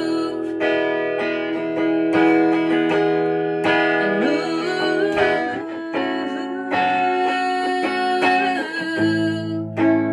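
Guitar playing an instrumental passage of a folk song, plucked notes ringing over a held low chord, with no singing.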